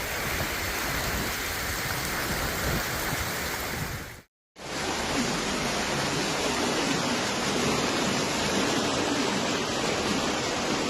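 Steady rushing water, heard as two clips separated by a brief cut to silence about four seconds in.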